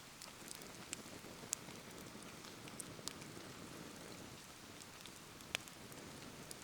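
Steady rain falling, with a wood bonfire crackling now and then: a scatter of sharp pops, the loudest about a second and a half in and again near the end.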